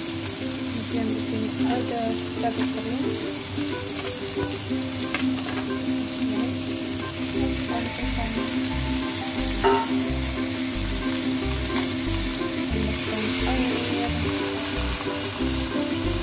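Chicken and potato chunks frying in oil in a pan, a steady sizzle, under background music whose low beat comes in about halfway.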